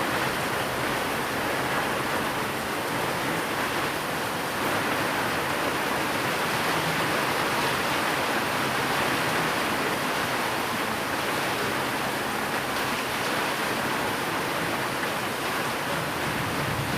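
Steady rain: an even hiss with no drops or thunder standing out, blended with white noise.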